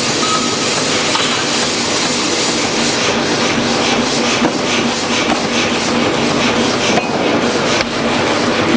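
Loud, steady forging-shop machinery din. From about three seconds in, a quick, uneven metallic clatter of roughly three or four knocks a second joins it.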